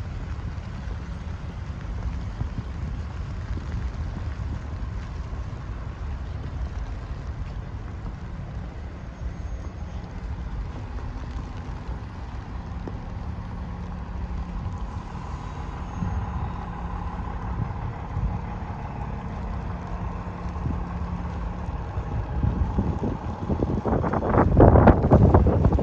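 Street sound in a snowstorm: steady low wind rumble on the microphone, with a motor vehicle passing whose engine hum grows louder near the end.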